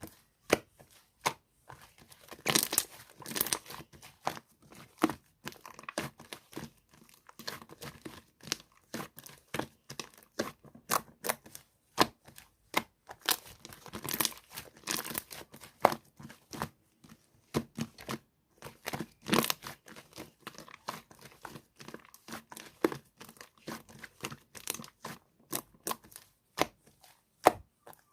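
Soft white slime squished and stretched by hand, giving irregular sticky clicks and short crackling runs of pops.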